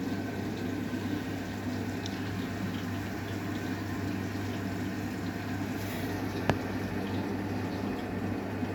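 Arçelik 9120M front-loading washing machine taking in water at the start of a wash: a steady rush of water with a constant low hum, and one sharp click about two-thirds of the way through.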